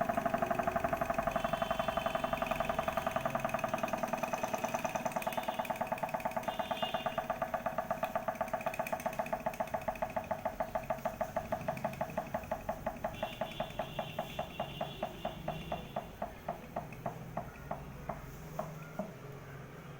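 Small model Stirling engine running with a regular click on each turn, slowing steadily from about eight clicks a second to about two and fading as it runs down.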